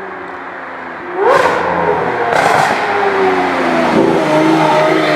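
Lamborghini Aventador V12 on a loud aftermarket exhaust, which sounds like a Powercraft system to the onlooker. It runs quietly at first, then about a second in revs up sharply and gets loud, blips again, and keeps pulling with a strong exhaust note.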